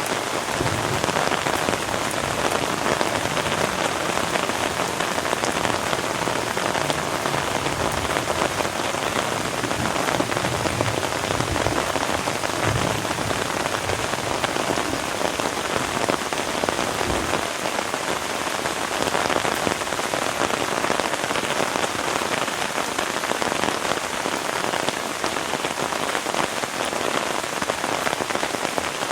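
Heavy rain falling steadily, with soft low thuds now and then in the first half.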